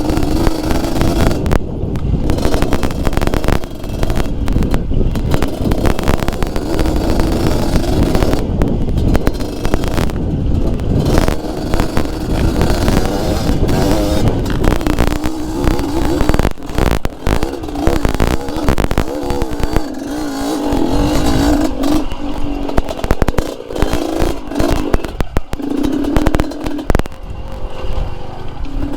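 Two-stroke trail motorcycle, a Yamaha DT fitted with an RX-King engine, ridden over rocky ground, its engine note rising and falling with the throttle. Rapid knocks and clatter from the bike jolting over the rocks run through it.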